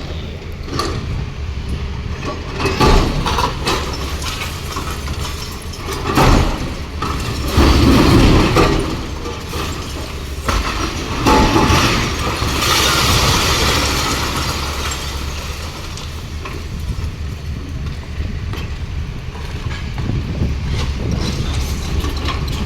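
Hyundai 215 excavator's diesel engine running steadily while its hydraulic breaker hammers and breaks reinforced concrete. Loud crashes come about 3, 6, 8 and 11 seconds in, followed by a longer crashing rush near 13 seconds.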